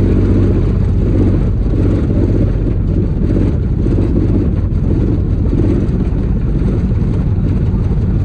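Steady low rumble of a moving vehicle: engine and road noise running without a break.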